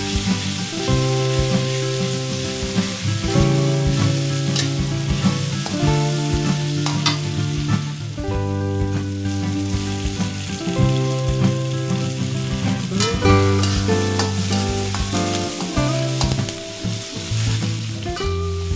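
Spice paste frying in oil in a wok, with a steady sizzle and the scrape and tap of a spatula stirring it. Background music with held notes plays throughout.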